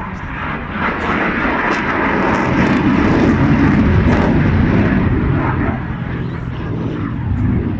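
Airplane engine noise as the aircraft flies past, swelling to its loudest about three to four seconds in and then easing off.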